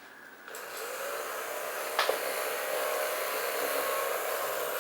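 Homemade mini vacuum cleaner, a small electric motor spinning a cut plastic-sheet fan inside a plastic bottle, switched on about half a second in and spinning up, then running steadily. A single click about two seconds in.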